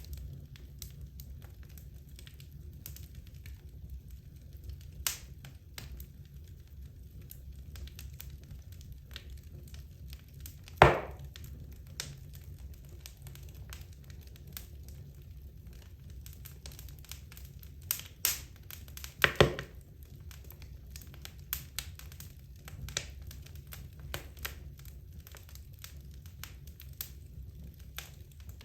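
Wood logs burning in a fireplace, crackling with scattered sharp pops over a low steady rumble. The loudest pop comes a little before halfway, and a few more come close together about two-thirds of the way through.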